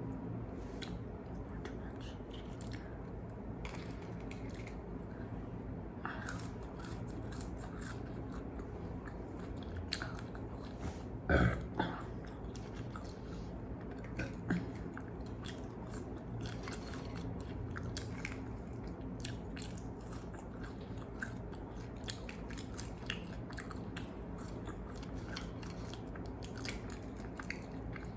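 Close-miked chewing and biting of crispy fried chicken wings: a steady run of small crunches and wet mouth clicks, with one louder burst of crunching about eleven seconds in.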